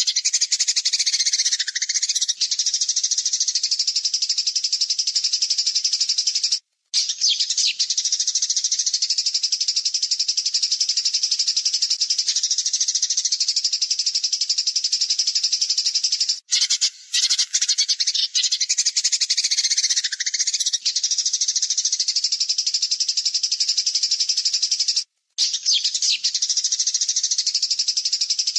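Songbird masteran recording of harsh, rapid-fire 'tembakan' trills: a fast, dense chattering held for several seconds at a time. It is cut off by short breaks about every nine seconds, where the recording loops.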